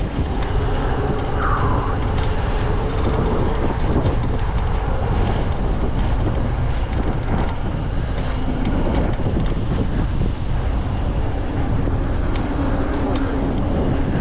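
Mountain bike riding down a dirt downhill trail: steady wind buffeting the microphone, with the rumble and rattle of the bike over rough ground.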